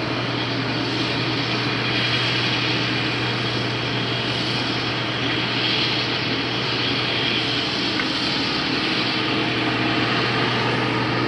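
IH 2577 combine harvester running steadily as it cuts, an even engine and machine drone with a low hum.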